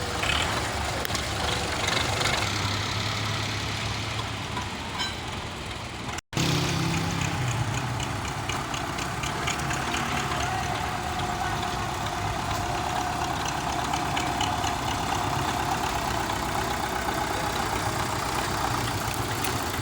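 Belarus tractor's diesel engine running steadily. The sound drops out for an instant about six seconds in, then carries on with a steady high whine through the middle part.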